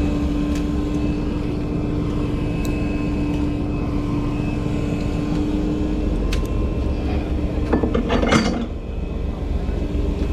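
Steady low drone of a boat's engine running, its pitch shifting about six seconds in, with a short metallic clatter about eight seconds in.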